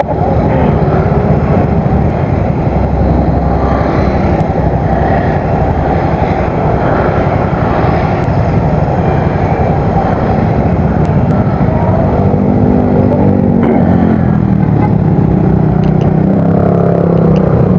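Yamaha Mio Soul GT scooter with an aftermarket exhaust running steadily on the road, mixed with wind rush. Its engine note stands out more clearly from about twelve seconds in.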